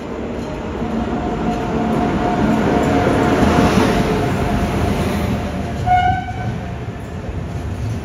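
WAP-7 electric locomotive and its LHB Tejas coaches rolling into a station platform. The rumble and wheel noise build to a peak about halfway through as the locomotive passes close by, then ease as the coaches follow. A brief horn blast sounds about six seconds in.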